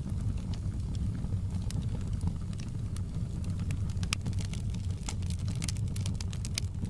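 Fireplace crackling: a steady low rumble of burning wood with many sharp pops and snaps, coming thickest about five to six and a half seconds in.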